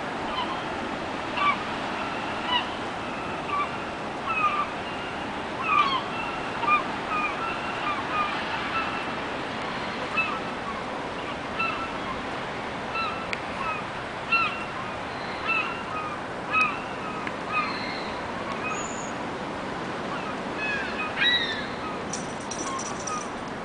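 A flock of gulls calling as it flies overhead: many short calls, often several close together, over a steady background rush. The calls thin out toward the end.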